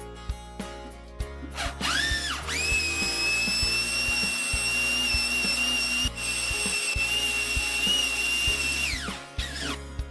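Electric drill motor spinning up about two seconds in, running at a steady high whine for about six seconds with a brief catch midway, then winding down near the end.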